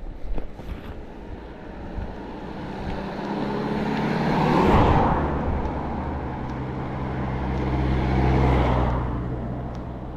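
Motor vehicles passing by close on a road. The first swells to a loud peak about halfway through. A second, with a heavier low engine hum, peaks again near the end.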